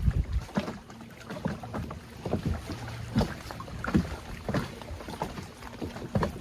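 Water slapping against a kayak's hull, with small irregular knocks several times a second over a low steady rumble.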